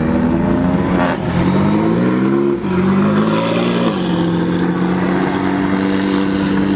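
A car engine accelerating hard: its pitch climbs, drops suddenly at a gear change about two and a half seconds in, climbs again, shifts once more about four seconds in, then holds a steady note.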